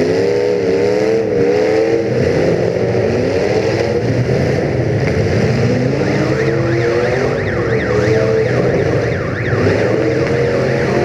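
A demolition derby car's engine running and revving, its pitch rising and falling repeatedly. From about halfway through, a siren sweeps rapidly up and down over it.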